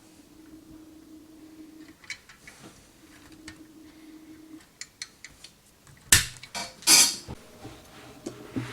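Small sheet-metal parts of a toy cork pop gun being handled and fitted together: scattered light clicks and clinks, then two loud metallic knocks about six and seven seconds in.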